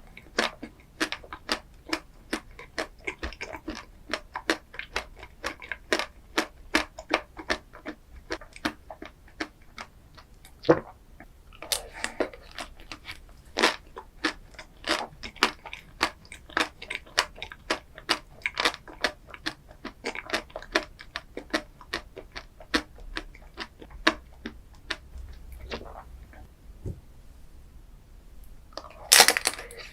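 Close-miked chewing and crunching of chocolate-coated ice cream, several sharp crunches a second, with a louder crackling bite near the end.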